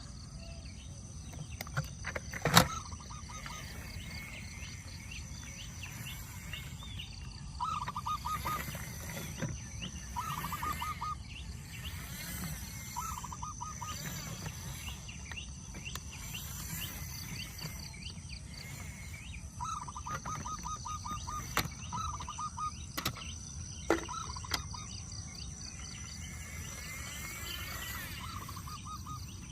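Outdoor ambience: a bird repeatedly giving short, rapid chattering calls, over a steady high thin buzz and low background rumble. A few sharp knocks sound, the loudest about two and a half seconds in and another near 24 seconds.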